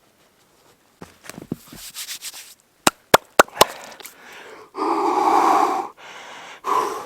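A person breathing out hard and loudly for about a second, then again briefly near the end. Before that come crackly handling noises and several sharp clicks.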